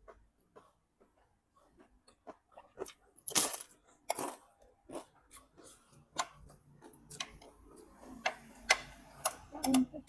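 Irregular light clicks and knocks of things being handled, with two louder rustling, scraping noises about three and four seconds in and a quick run of clicks near the end.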